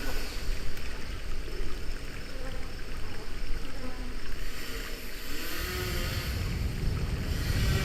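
Rushing river-rapids water churning around a circular raft on a water-ride channel. A heavy low rumble builds in about two-thirds of the way through.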